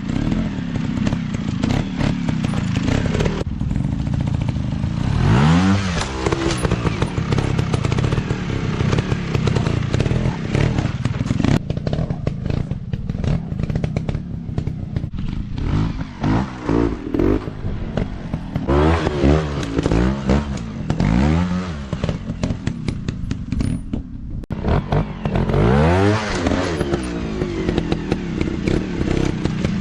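Dirt bike engines revving on an off-road track, the pitch rising and falling again and again in short throttle blips, with a rattling clatter throughout.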